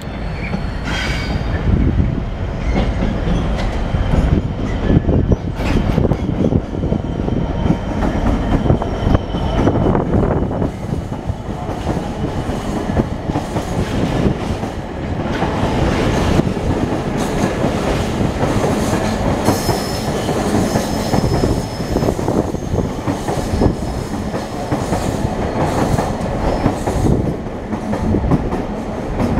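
A long freight train approaches and runs past: first the locomotive, then a string of metal flatbed wagons rolling by with a clickety-clack of wheels over rail joints. Brief high wheel squeals come near the start and again about two-thirds of the way through.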